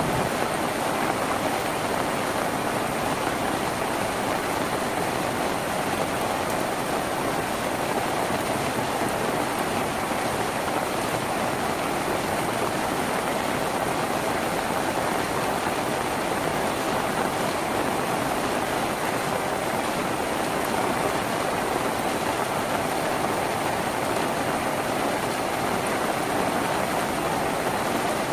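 Rain falling steadily on a tin roof, an even hiss of many drops with no let-up.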